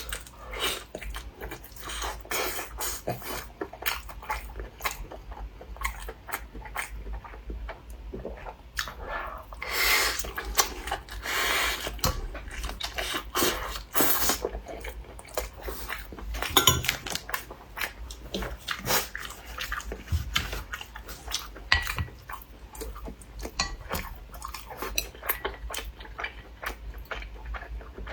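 Close-miked eating sounds: a person chewing crunchy food, with dense, irregular crackles and crunches.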